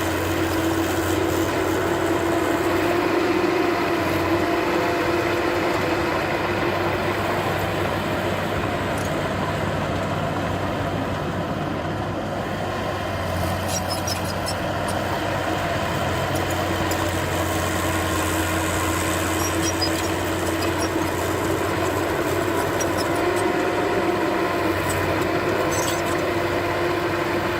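Diesel engine of heavy earthmoving machinery running steadily, a constant low hum with a droning tone above it.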